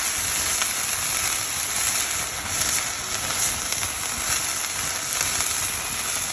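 Madeira wine sizzling hard in a hot skillet as it deglazes the pan, a steady crackling hiss while its alcohol burns off.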